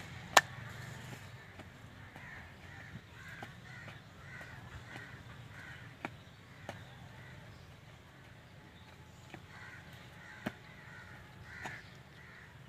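Bird calls repeated in two runs, one in the first half and one near the end, over a low steady background hum. A few sharp clicks come in between, the loudest just under half a second in.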